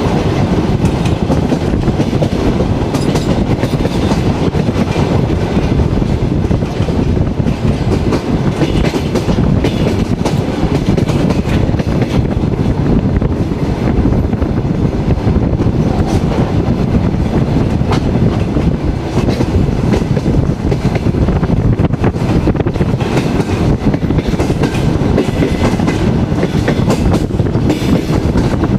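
A passenger carriage running along the line, heard from its window: a steady heavy rumble of wheels on rail, with the clickety-clack of the wheels crossing rail joints.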